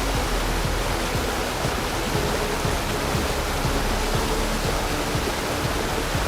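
Steady rushing roar of Karuru Falls, a tall multi-step waterfall, with background music playing over it.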